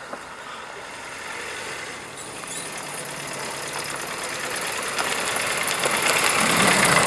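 A car's engine running, growing steadily louder as it draws near.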